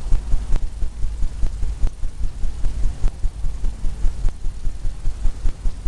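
Paintbrush tapped rapidly against a stretched canvas loaded with wet oil paint, a steady run of low, dull thumps at about four or five a second.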